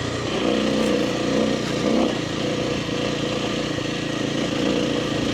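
Kawasaki KLX300R dirt bike's single-cylinder four-stroke engine running at a steady cruising throttle on a trail, its pitch holding fairly even with a slight dip about two seconds in.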